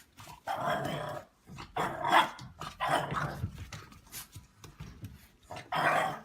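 A dog growling and barking in about four short bursts.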